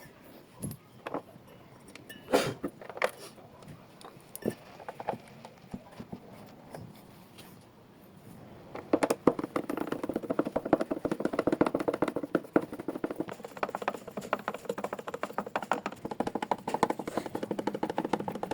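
Knocks and clicks of hand work on a washing machine, scattered at first, then from about nine seconds in a dense, fast clattering rattle.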